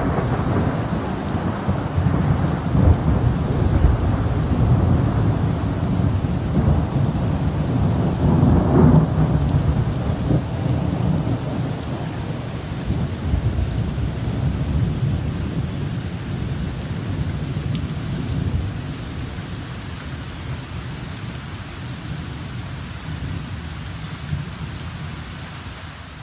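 Thunder rolling through heavy rain: a long low rumble that swells again about nine seconds in, then slowly fades, over the steady hiss of falling rain.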